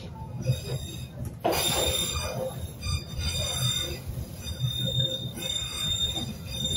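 Narrow-gauge train running with a low rumble and knocks from the wheels on the track. From about a second and a half in, its wheels squeal with several high steady tones, typical of wheel flanges rubbing on a curve.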